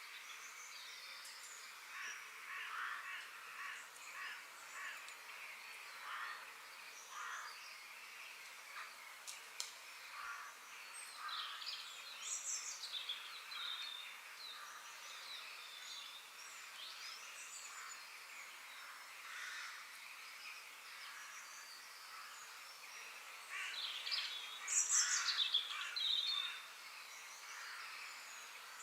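Forest ambience: several birds calling and chirping over a steady high background hiss, with a louder, busier flurry of calls near the end.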